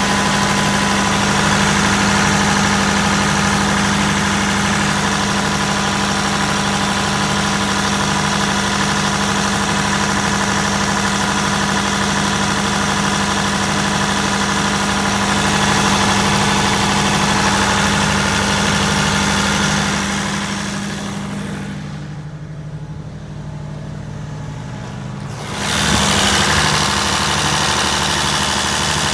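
Perkins 1103A-33TAG2 three-cylinder turbocharged 3.3-litre diesel engine of a 45kVA generator running steadily with a constant low hum. About twenty seconds in the sound grows duller and quieter for a few seconds, then comes back at full strength abruptly.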